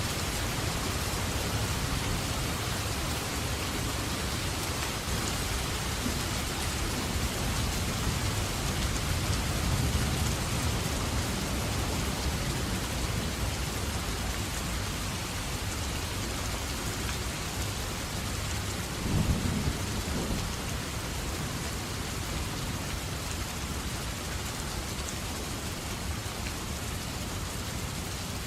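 Steady heavy rain falling, with low rolling thunder rumbling through the first half and a sudden louder thunderclap about two-thirds of the way in.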